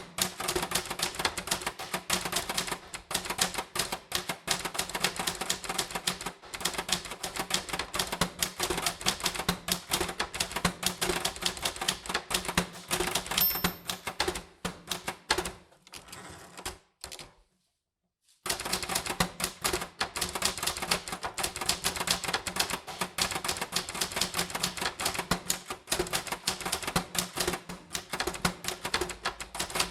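Typewriter keys being struck in quick, steady succession. The typing stops for about two seconds a little past halfway, then carries on.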